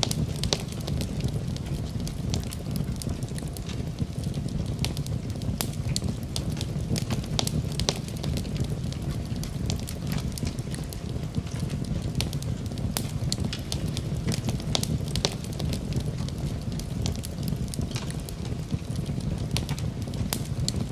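Wood fire crackling steadily in a fireplace, with frequent sharp pops and snaps over a low, even rumble of burning.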